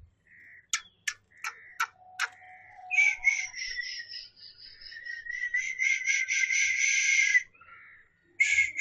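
An animal calling in a fast series of short, high notes, several a second, that grows louder toward the end, after a few sharp clicks.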